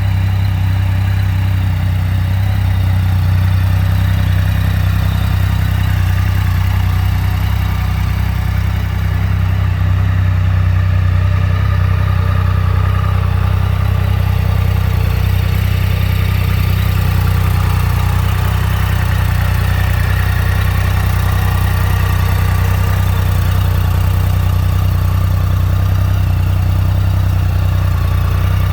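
Triumph Rocket 3 GT's 2,458 cc inline three-cylinder engine idling steadily at an even, low pitch.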